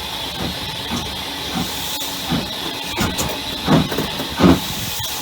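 Steam locomotive working: a steady hiss of steam with regular exhaust beats about one every three-quarters of a second, the beats growing louder over the last couple of seconds.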